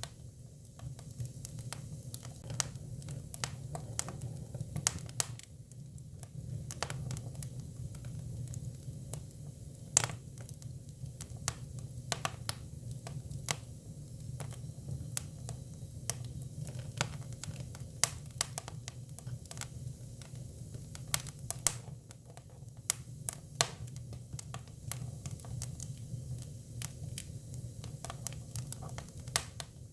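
Hinoki (Japanese cypress) firewood burning: irregular sharp crackles and pops over a steady low rumble.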